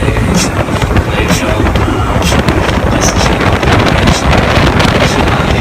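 Tour speedboat running fast through the water: loud wind buffeting the microphone over the rumble of the engines and the rush of water, with a sharp hit every second or so as the hull meets the chop.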